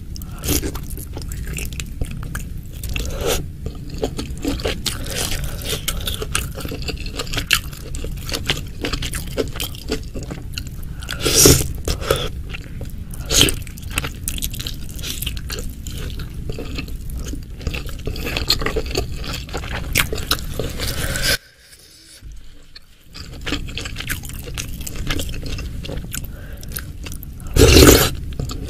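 Close-miked eating of pentol begal, meatballs and beef ribs in spicy broth: steady chewing and biting with many small wet clicks, broken by a few sharper, louder knocks. About two-thirds of the way through the sound drops away briefly, then the chewing resumes.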